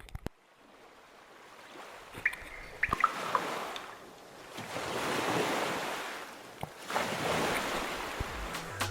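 Ocean waves washing in, swelling and fading three times, with a few brief high squeaks about two to three seconds in.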